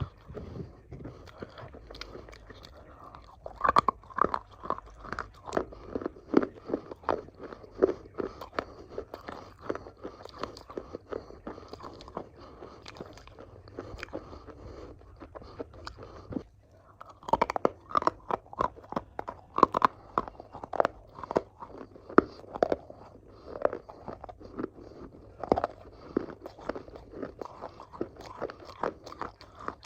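Crunchy food being bitten and chewed close to the microphone: sharp crackling crunches come in loud clusters, with softer chewing in between.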